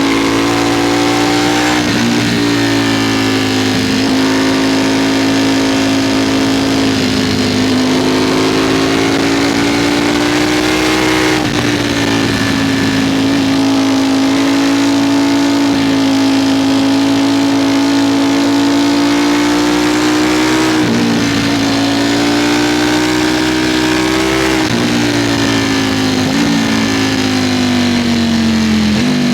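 Ducati Streetfighter V4 sport motorcycle's V4 engine pulling hard at high revs under riding speed, mostly at a steady pitch. The pitch briefly dips and climbs again several times as the throttle eases and reopens, and it starts to fall at the very end. Wind noise rushes across the microphone.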